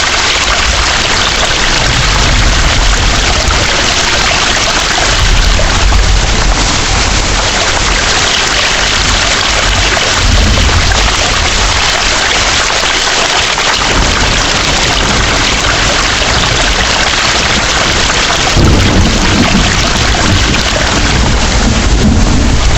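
Heavy rain falling in a steady hiss, with low rolls of thunder rumbling several times, the longest near the end.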